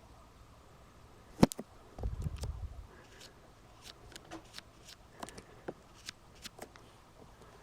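A sharp knock, then a low rumbling thump, then a string of scattered light clicks and taps.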